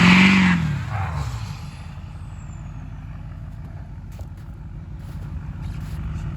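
Vehicle engine sound: a loud, pitch-bending engine noise at the start fades within about a second to a steady low engine rumble.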